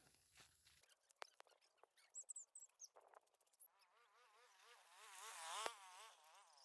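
A faint insect-like buzz whose pitch wavers up and down. It grows louder to a peak a little after halfway and then eases off, with a few soft ticks before it.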